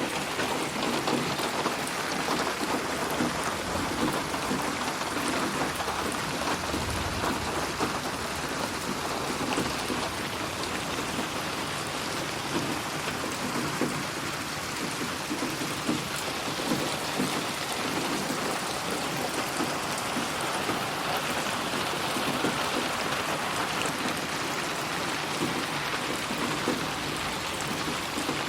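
Steady rain falling and pattering on a surface, spatially processed as 8D audio. A brief low rumble comes about seven seconds in.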